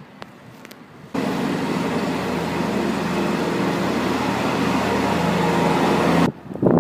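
A loud engine running steadily under a broad roar, starting suddenly about a second in and cutting off abruptly near the end.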